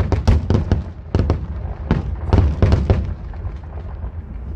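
Fireworks finale: rapid volleys of bangs and crackling shells in quick clusters, thinning out over the last second or so.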